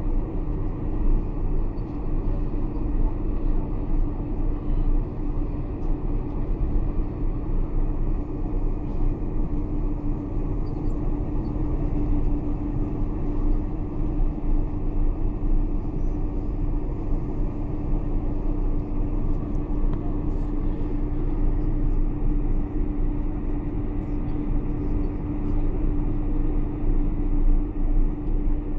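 Steady cabin rumble inside a Boeing 747-400 on the ground, with its engines running at low power and a steady hum over the noise. The level holds even, with no build-up of takeoff thrust.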